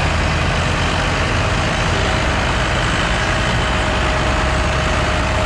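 Massey Ferguson 6499 tractor's diesel engine running hard under full load, pulling a weight sled. The sound is loud and steady, with a faint steady whine over the engine.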